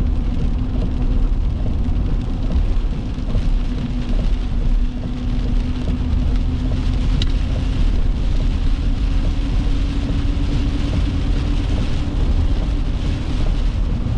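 A car driving: steady road and engine noise, with a hum that rises slightly in pitch as it goes.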